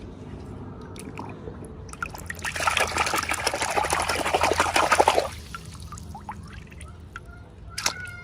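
Liquid pouring or trickling for about three seconds, starting some two and a half seconds in, then a single sharp click near the end.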